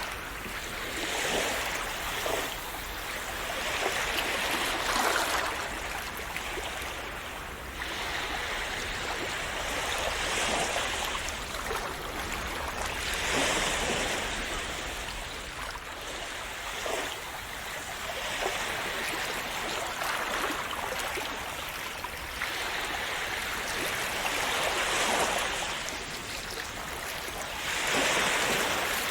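Calm sea waves washing in and splashing, the surge rising and falling every few seconds.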